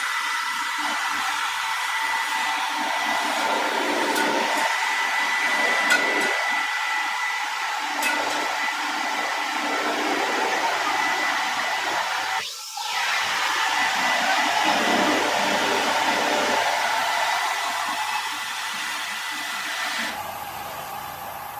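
A steady machine hiss with a faint high whine, dipping briefly about twelve seconds in and easing off near the end.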